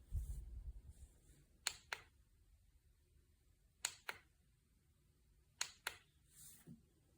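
Three pairs of sharp double clicks, spaced about two seconds apart, against a quiet background.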